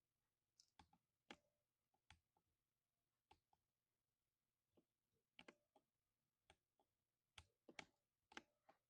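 Keystrokes on a 60% mechanical keyboard with lubed silver switches: sparse, irregular taps, some in quick pairs or short clusters, with pauses of up to a second between them.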